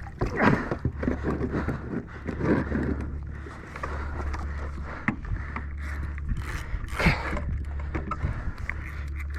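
Irregular splashes of water and knocks of gear against a kayak's hull over a steady low rumble of wind on the microphone, with the largest splashes about half a second, two and a half, and seven seconds in.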